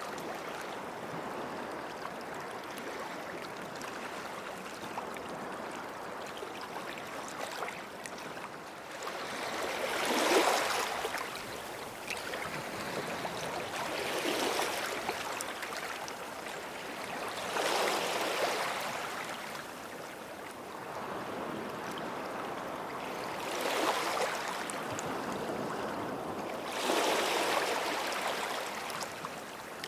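Small sea waves washing up a sandy beach: a steady hiss of surf, with a wave swelling and fading every few seconds, about five times, the loudest about a third of the way in.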